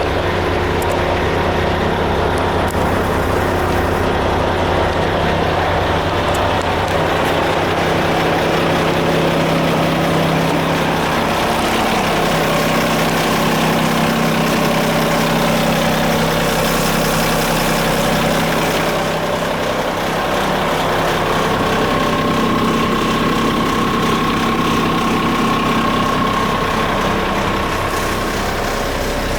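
Diesel engine of a Renault Midlum 220 dCi truck running steadily at idle. Its note shifts about a third of the way through, and a thin steady whine joins in for several seconds later on.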